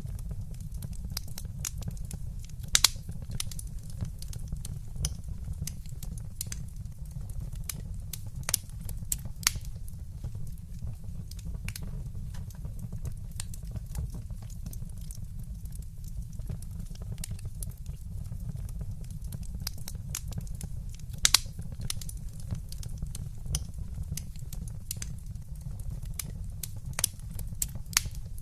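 Wood fire crackling in a fireplace: frequent small snaps, with a handful of louder pops scattered through, over a steady low rumble.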